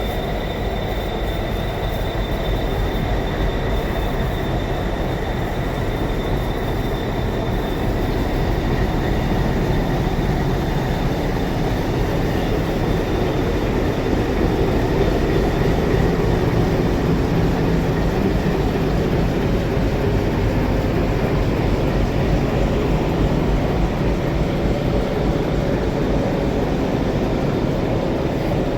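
WDG3A ALCO diesel locomotive running, its V16 engine giving a steady, loud, low rumble. A faint high whine sounds over it during roughly the first eight seconds.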